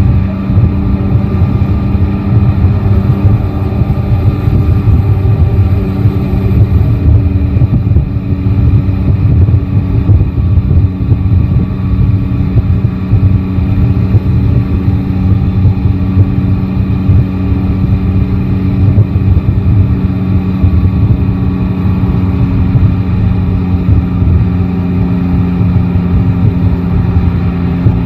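Yamaha Tracer 9 GT's 890 cc three-cylinder engine running at fairly steady revs while riding, under a constant low, fluttering rumble of wind and road noise.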